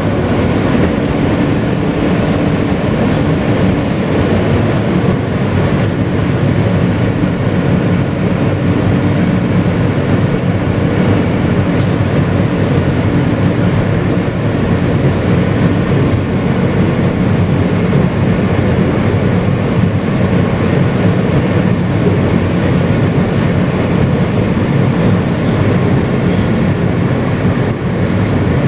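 Kawasaki R160B subway car with Siemens propulsion running at speed, heard from inside the car: a loud, steady rumble of wheels on the rails with a faint motor hum.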